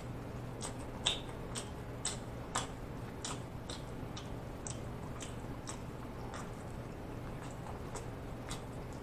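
Close-miked chewing of an Italian beef sandwich: soft, wet mouth clicks and smacks, irregular, about one or two a second, over a faint steady low hum.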